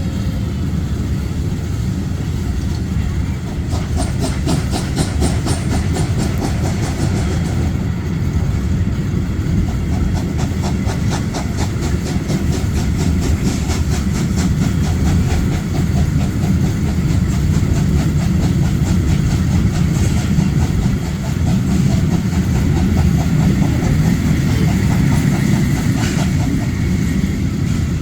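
Historic passenger train running on the rails: a steady low rumble with rapid, regular clicking that starts a few seconds in.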